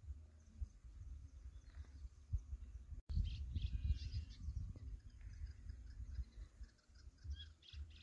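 Small birds chirping in short high notes, over a steady low rumble. The sound cuts out for an instant about three seconds in; a cluster of chirps follows right after, and more come in the last couple of seconds.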